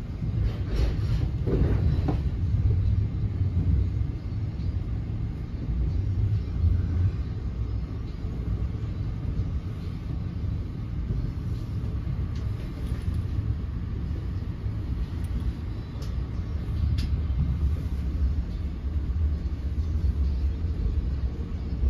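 NJ Transit Multilevel coach running at speed, heard from inside the car: a steady low rumble of wheels on rail, with a few short clicks and rattles.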